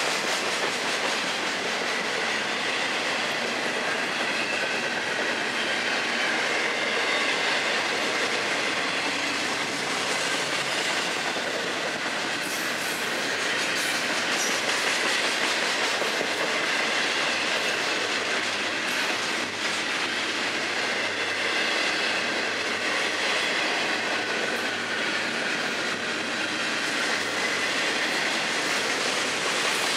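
Double-stack intermodal freight cars of a Florida East Coast Railway train rolling steadily past: a continuous rattle and clatter of steel wheels on the rails, with a faint high squeal that comes and goes.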